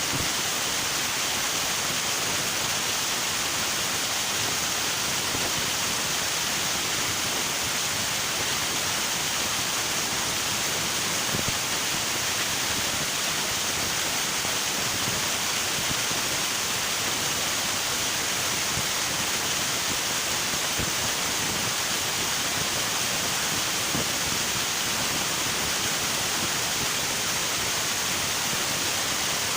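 River water rushing steadily over rocks, a constant even rush with no breaks.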